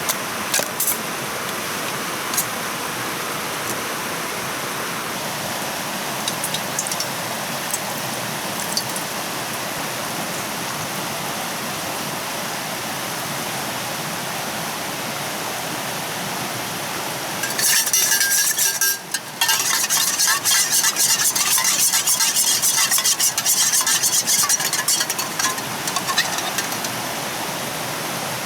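Steady rushing of stream water. About two-thirds of the way in, a loud stretch of dense crackling starts, breaks off briefly, then carries on for several seconds before stopping.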